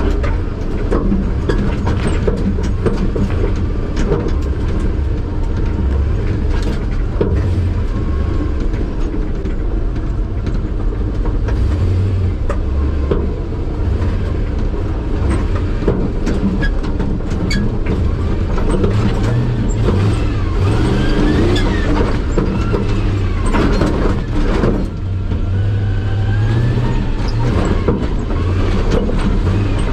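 Chevy 5.3 L LS V8 with an open 4-inch exhaust stack running and revving up and down as the truck crawls a rough trail, with scattered knocks and rattles.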